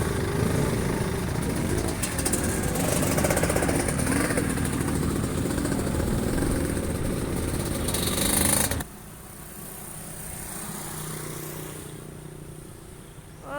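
Motorcycle engines running hard at high revs as race bikes go by, a loud, dense noise. It cuts off abruptly about nine seconds in, leaving a much quieter low hum.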